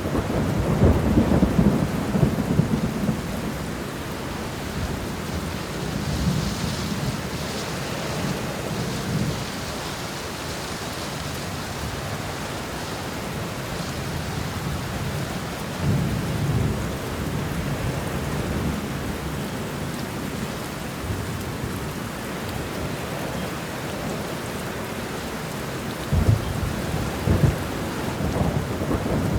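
Heavy rain beating steadily on a car window, with deep rolls of thunder rumbling near the start, midway and again near the end.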